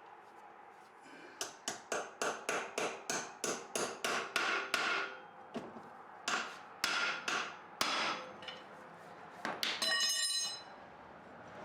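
Hammer blows on metal: a quick run of about a dozen strikes at roughly three a second, a pause, a few more spaced blows, then near the end a short flurry that leaves a metallic ring.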